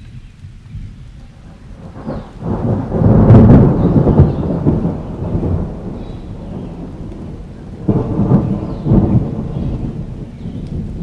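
Thunderstorm ambience: steady rain with rolling thunder. A deep rumble swells about two seconds in, peaks and slowly fades, and a second rumble rises near the end.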